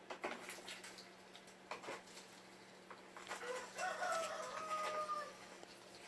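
Young mallard ducks dabbling in a tub of water and feed, their bills clicking and splashing. One drawn-out call comes from about the middle of the clip, lasting nearly two seconds.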